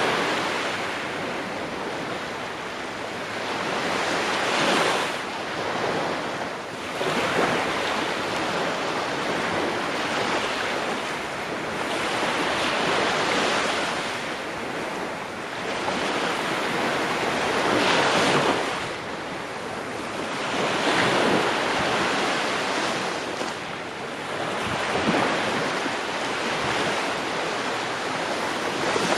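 Ocean waves breaking on a shore, each surge rising and falling back every few seconds in a continuous wash of surf.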